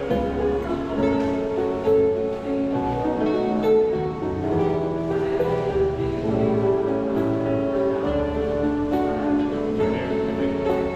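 Live acoustic guitar music, a run of changing notes played without a break.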